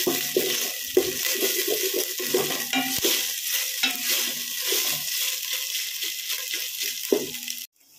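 Sliced onions, green chillies and capsicum with ginger-garlic paste sizzling in oil in a pan while a wooden spatula stirs and scrapes them around. The sound stops abruptly just before the end.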